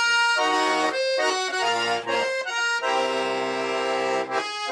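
Russian garmon (button accordion) playing the instrumental introduction to a song: a phrase of chords that settles into one long held chord about three seconds in.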